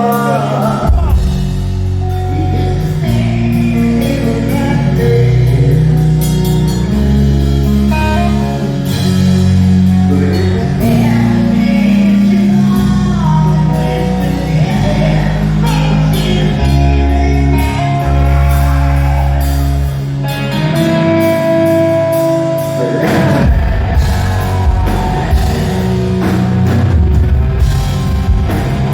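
Rock music with singing, electric guitar, bass and drums.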